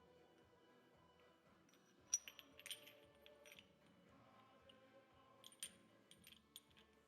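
Light metallic clinks of small steel gearbox parts being handled and set down, in two short clusters, the first about two seconds in and the second near the end, over near silence.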